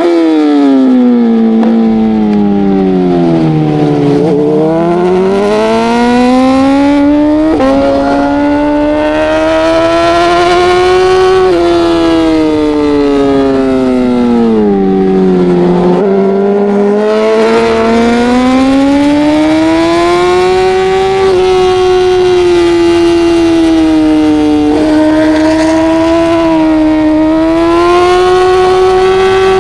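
Racing motorcycle engine at high revs, falling in pitch as it slows for corners about 4 and 16 seconds in, then climbing again through the gears with brief breaks at each upshift.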